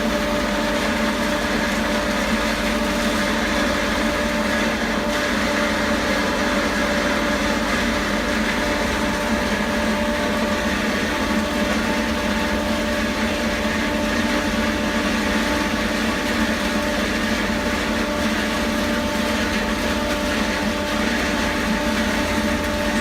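Pillow-stuffing vacuum machine running steadily: an even motor hum over a constant hiss.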